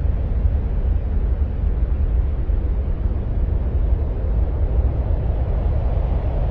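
Steady, unchanging deep rushing noise, heaviest in the low bass with a thinner hiss above: an ambient noise track presented as the sound of Mars.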